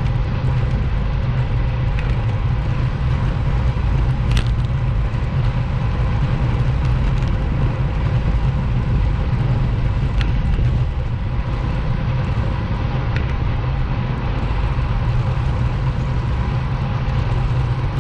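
Steady low rumble of a motorcycle riding along at road speed, engine and wind noise together, with no change in pace.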